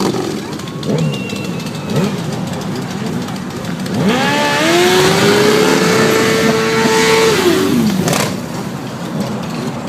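A vehicle engine revving: about four seconds in it climbs in pitch, holds at high revs for about three seconds, then drops back.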